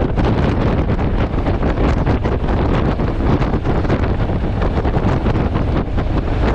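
Heavy wind noise buffeting the camera's microphone on a moving motorcycle: a loud, unbroken rumbling rush, heaviest in the low end.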